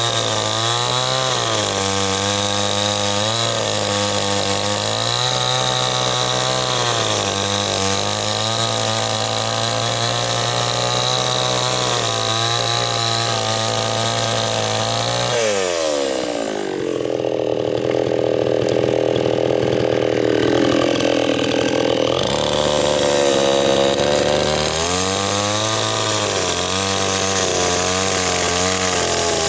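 Two-stroke chainsaw running at high revs with a wavering pitch. About 15 seconds in, the pitch drops sharply as the saw bogs down under load in a cut; it climbs back to full revs about 22 seconds in.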